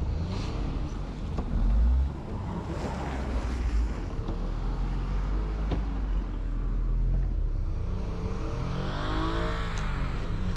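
Engine of a vehicle stuck in snow running and revving up and down as the driver rocks it forward and back to break free; the revving swells about eight seconds in.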